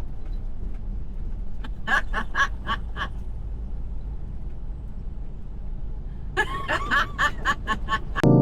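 A woman laughing in short bursts, twice, over the steady low rumble of a truck cab on the move.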